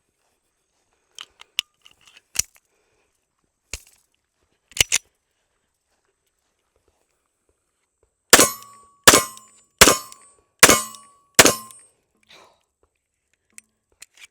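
A few sharp metallic clicks as the pistol is handled, then five shots from a Model 1911 A1 .45 ACP pistol fired in quick succession, about one every three-quarters of a second.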